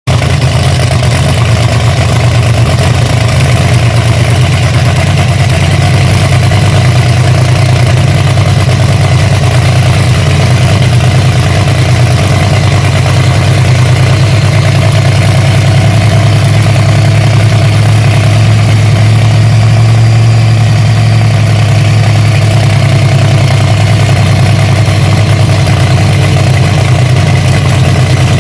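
A loud engine idling steadily, with a deep, even note.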